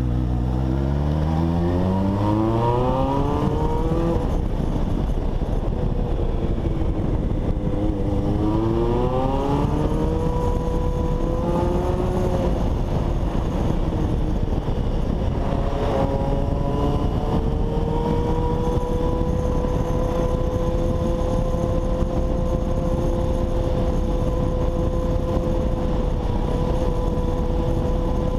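Honda CBX 750's inline-four engine pulling hard through the gears. The pitch climbs, drops at an upshift, climbs again, then holds nearly steady as the bike cruises through the second half.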